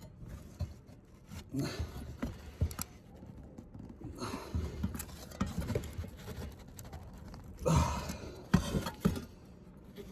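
Irregular handling noises: short scrapes, clicks and knocks, the loudest cluster about eight seconds in.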